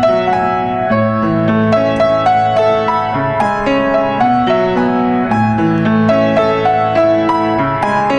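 Background music: a gentle piano melody played over sustained chords, with notes struck every half second or so.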